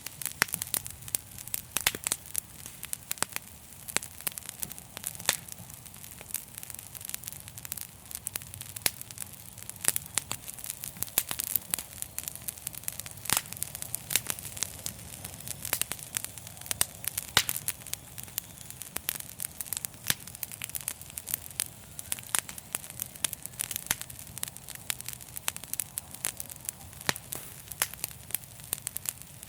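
Wood fire in a fireplace crackling: many irregular sharp snaps over a steady low rumble.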